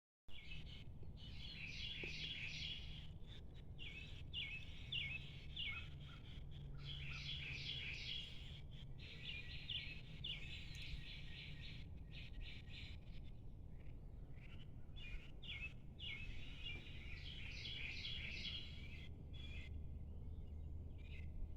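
A chorus of many small birds chirping, with rapid, overlapping high chirps coming in runs and a few short lulls, over a steady low rumble.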